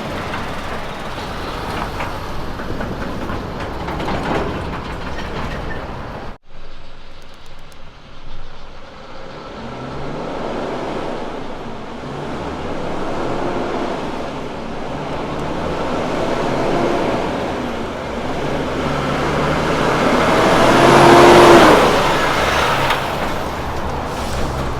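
Heavy Kenworth trucks' diesel engines running as they drive past, with a sudden cut to another truck about six seconds in. The loudest moment is a truck passing close near the end.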